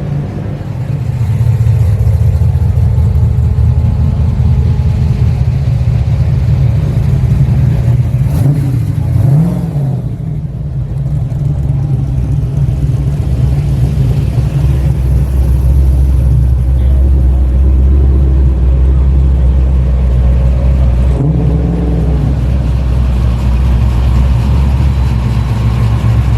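Car engines rumbling at idle and low speed as cars drive out of a car meet, with the throttle blipped briefly twice.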